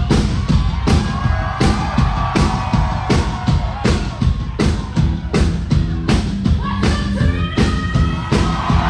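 Rock band playing live at full volume, with heavy drums hitting about two to three times a second over bass and distorted guitar.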